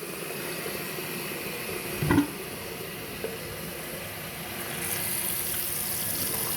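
Hot water running from an open faucet into a sink, flushing out the yellowish water after the water heater was refilled. A short knock about two seconds in, and the flow gets louder about five seconds in.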